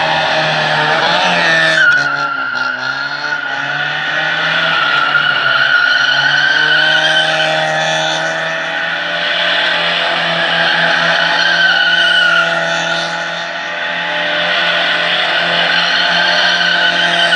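A car drifting: the engine holds steady revs under a continuous tyre squeal that swells and fades, with a brief break about two seconds in.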